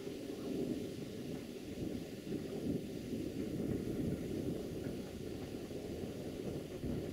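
Diesel train approaching from a distance: a steady low rumble with some unsteadiness in it, and a faint hiss above.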